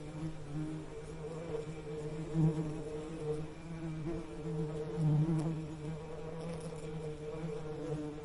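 Bees buzzing: a steady low hum that swells louder twice, about two and a half and five seconds in.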